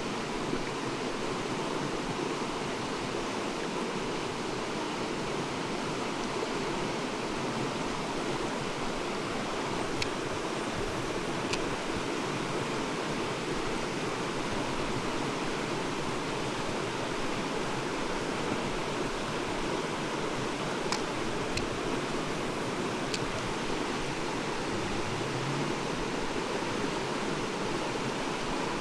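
Mountain stream rushing steadily over rocks, with a few faint sharp ticks, twice near the middle and three times later on.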